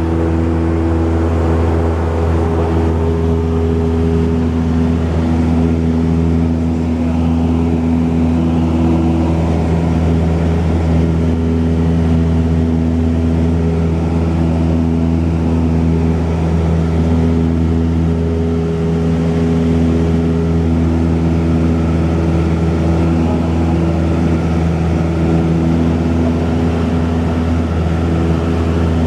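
Cessna 172's piston engine and propeller running steadily in cruise, a constant loud drone with no change in power.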